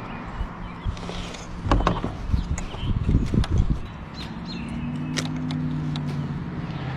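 Handling noises in a kayak with a freshly caught bass: sharp clicks and knocks, and a cluster of dull thumps about two to three and a half seconds in. From about four and a half seconds there is a steady low hum.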